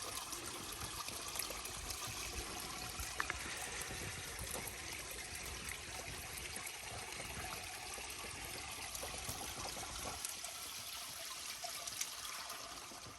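Faint, steady trickling, water-like hiss of a wet snowfall, with a few light ticks.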